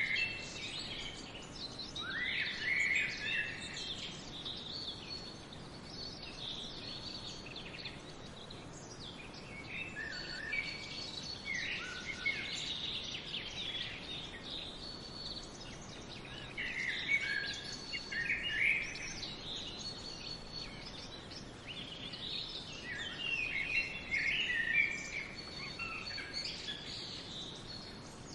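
Small birds chirping and trilling in scattered bouts over a steady background hiss.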